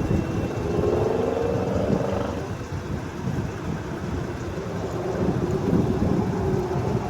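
2022 Jeep Grand Cherokee's engine running at idle with the air conditioning on, a steady mechanical noise.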